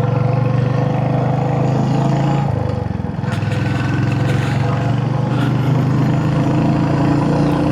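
Royal Enfield Hunter 350's single-cylinder engine running steadily under way, with wind rush; it eases off briefly between two and three seconds in, then pulls steadily again.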